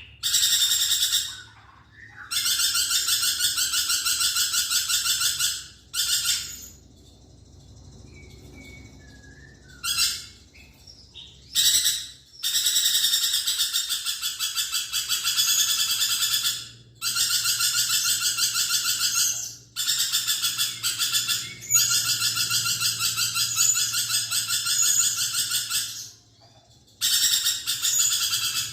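Lorikeet screeching in long, rapid, buzzy chattering bouts of a few seconds each, separated by short pauses, with a quieter spell of a few short calls about a third of the way through.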